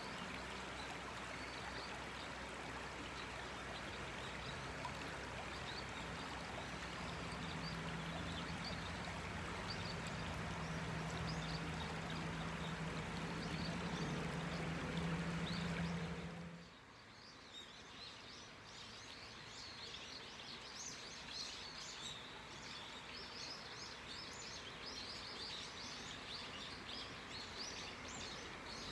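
A clear river flowing, with a low steady hum under it. About halfway through it cuts off abruptly to a quieter background of gently running water with small birds chirping repeatedly.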